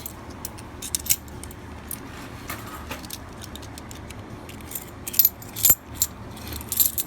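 Half dollar coins clinking and chinking against one another as they are handled and sorted by hand, a scatter of metallic clicks that grows busier and louder about five seconds in, over a low steady rumble.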